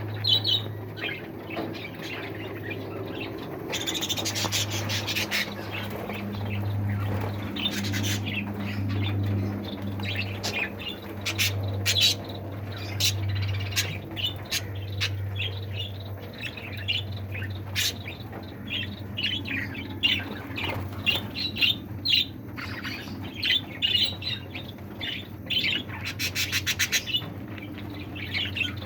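A mixed flock of pet aviary birds chirping and squawking continuously, with a quick rattling run of calls near the end. A steady low hum lies underneath.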